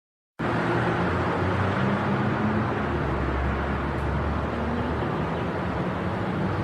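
Vehicle engine and road noise, cutting in abruptly about half a second in and then running steadily with a low engine hum.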